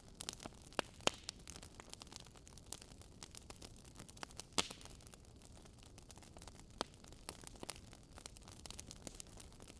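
Campfire crackling: a steady faint hiss with frequent small snaps and a few louder pops, around one second, four and a half seconds and seven seconds in.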